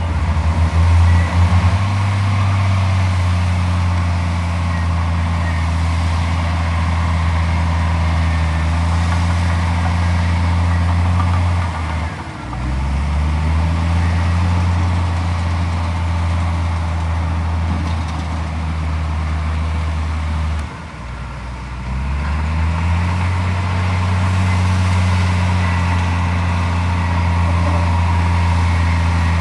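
Heavy diesel engine of earthmoving machinery running steadily under load. Twice, about twelve and twenty-one seconds in, the engine note sags and then climbs back up as it is throttled down and revved again.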